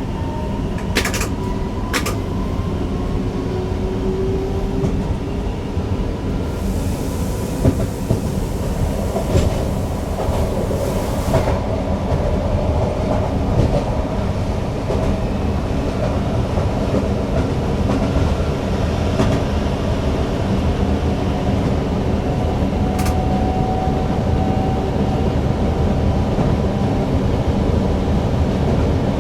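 Newag Impuls EN63 electric multiple unit running at speed, heard from the driver's cab: a steady rumble of wheels on rail with scattered clicks. About seven seconds in, a hiss rises and lasts some five seconds.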